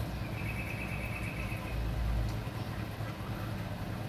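A steady low mechanical hum, with a faint high whine for about a second near the start.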